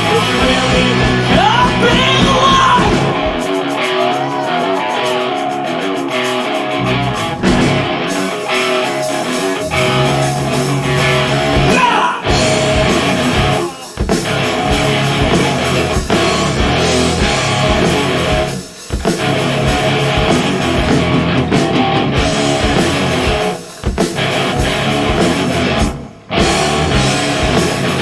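Live rock band playing, with electric guitar leading over bass and drums and bending notes early on. The bass and drums drop out for a few seconds near the start and then come back in. The band cuts out briefly several times in the second half.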